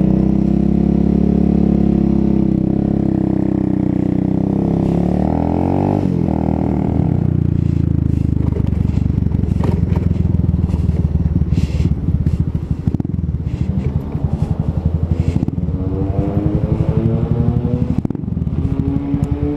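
125cc motorcycle engine slowing down from riding speed, then running at idle with a fast, even pulse. Near the end it revs up again as the bike pulls away.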